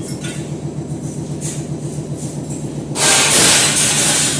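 Construction-site machinery running with a steady, rhythmic engine drone and light metallic clinks; about three seconds in a loud hiss starts suddenly and lasts over a second.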